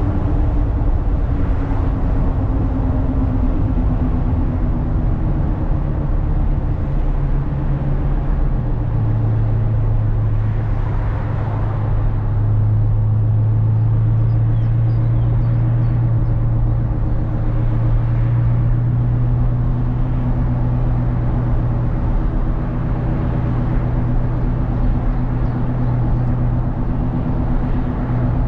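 Ferrari California's 4.3-litre V8 running at a steady highway cruise, its drone sinking slightly in pitch over the first few seconds and then holding even, over tyre and wind noise.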